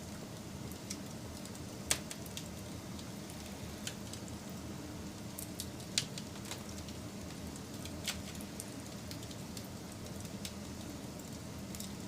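Wood fire burning with a steady low rush and scattered sharp crackles and pops, the loudest about two and six seconds in.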